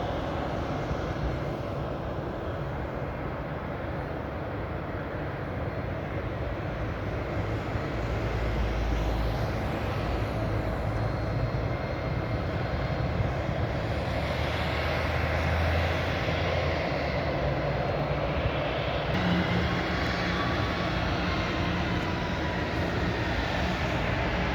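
Jet engines of an Airbus A320 running with a steady rumble and whine, growing gradually louder.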